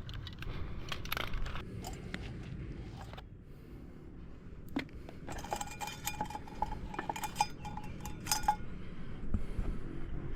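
Metallic clinking and jingling, with a run of rapid bell-like rings on one pitch through the middle, over a low rumble. The sound cuts off suddenly at the end.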